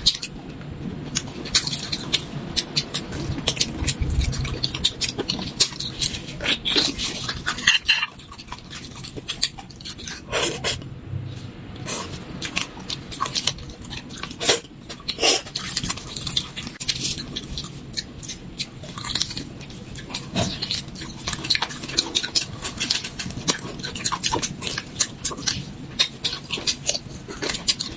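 Close-up eating sounds of a person chewing and slurping soft beef bone marrow: irregular wet smacks and mouth clicks, many a second.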